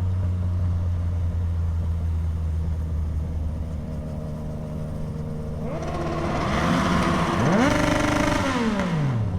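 Motorcycle accelerating past, its engine note rising, holding high, then dropping away as it goes by, over a steady low engine hum.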